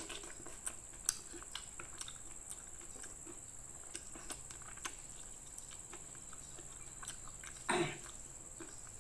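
Close-up chewing of food: soft, irregular mouth clicks and smacks. A short, louder breathy or throaty sound comes near the end.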